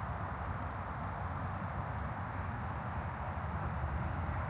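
Steady outdoor ambience: a low rumble of wind on the microphone under a high, even drone of insects.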